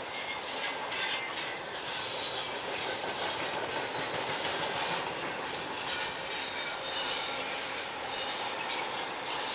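Freight train cars rolling steadily past on a curve, their wheels squealing against the rail over a continuous rumble of rolling stock.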